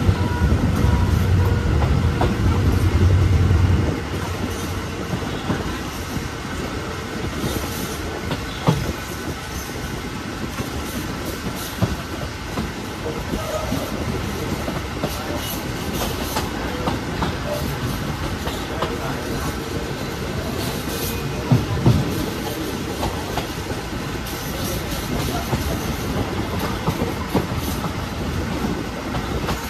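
Passenger train running along the track, heard from aboard: a steady rumble and rail noise, heavier for the first few seconds, with an occasional clack of the wheels over the rails.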